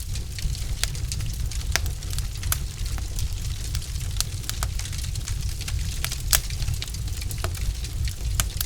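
Wood fire burning in a fireplace: a steady low rumble of flames with irregular sharp crackles and pops from the logs, one of the loudest about six seconds in.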